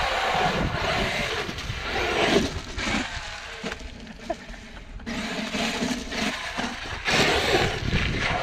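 Large electric RC monster truck driving hard on wet sand, its motor and tyres churning. It is louder in two spells, in the first few seconds and near the end, with a quieter stretch between.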